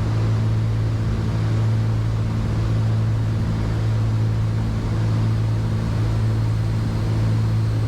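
Cessna 310Q twin piston engines and propellers droning steadily at approach power on final, heard from inside the cockpit as a constant low hum under an even rush of noise.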